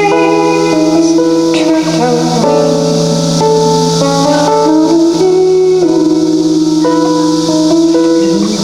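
Live band music: a melody of held notes moving over guitar accompaniment and a steady low note.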